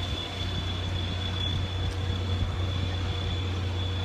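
Passenger coach of a train pulling out of a station, heard from inside: a steady low rumble of running noise, with a thin steady high whine over it.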